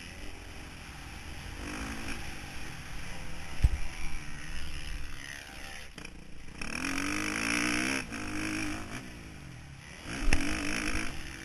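Motocross motorcycle engine heard from a camera mounted on the bike, revving up and dropping back again and again as the rider works the throttle, loudest in a long pull a little past the middle. Two sharp thumps cut through, about a third of the way in and near the end.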